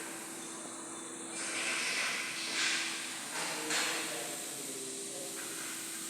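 Compressed air hissing from an air tool in several bursts of a second or so, starting about a second and a half in, over a steady faint hum.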